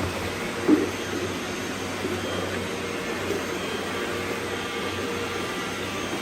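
Robot vacuums running, a steady whirring hum with their suction noise, and one brief louder bump under a second in.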